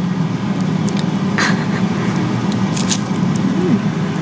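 A steady low hum, with a short hiss about one and a half seconds in and a few faint clicks.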